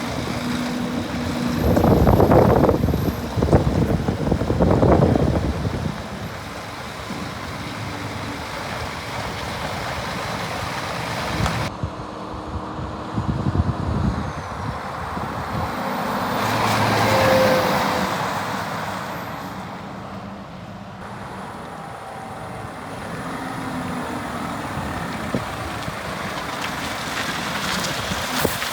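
Scania R490 8x4 heavy truck running steadily, with gusts of wind buffeting the microphone in swells. The sound changes abruptly twice, as between separate shots.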